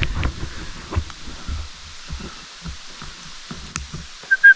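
Irregular low thumps and knocks of movement and gear handling, with a few light clicks. Near the end, a whistle starts sounding in a couple of quick, short, high blasts, the loudest thing here.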